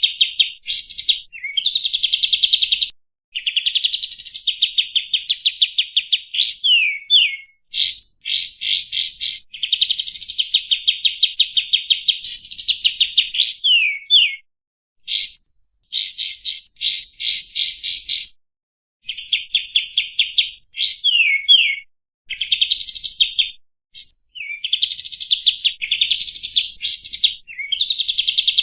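Kapas tembak songbird singing: long phrases of rapid, rattling repeated notes mixed with quick downward-sweeping whistles, broken by short pauses.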